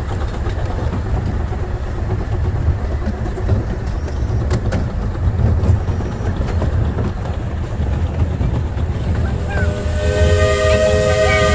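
Steady low rumble of a 15-inch-gauge steam train running, with scattered clicks from the wheels on the track. About ten seconds in, the locomotive's steam whistle starts blowing a chord of several notes and holds it.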